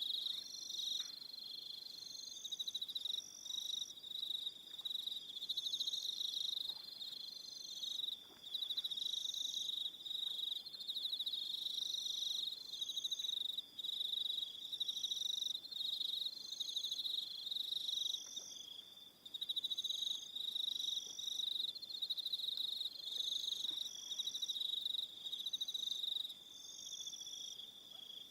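Evening chorus of crickets chirping: a dense, continuous high trill, with a second voice of short, higher chirps repeating about once a second over it.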